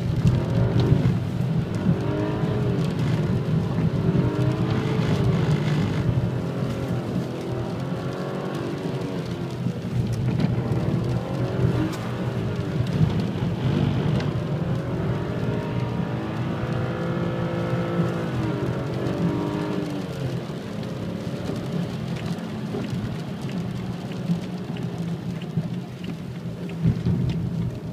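BMW 335i's turbocharged straight-six engine heard from inside the cabin, revving up and falling back again and again, with one longer climb and drop about two-thirds of the way through, over steady road and tyre noise.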